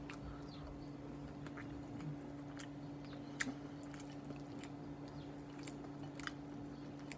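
A person quietly chewing a mouthful of soft spaghetti squash lasagna, with scattered faint clicks over a steady low hum.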